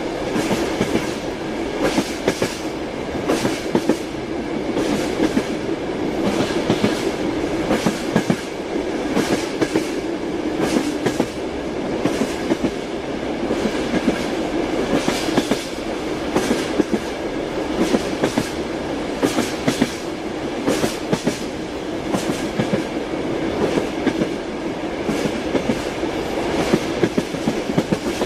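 Train wheels clicking over rail joints, a continuous clickety-clack over steady running noise from a moving train.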